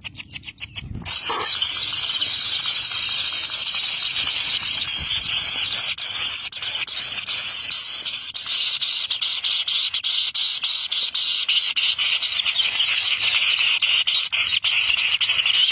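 Birds chirping in a dense, continuous high-pitched chorus that starts abruptly about a second in and holds steady.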